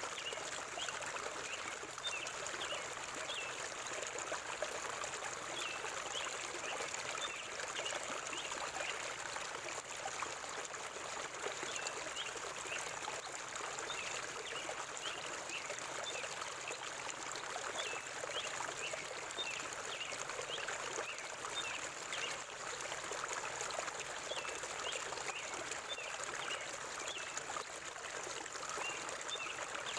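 River water flowing steadily over rocks, with small birds chirping in short, repeated calls over the sound of the water.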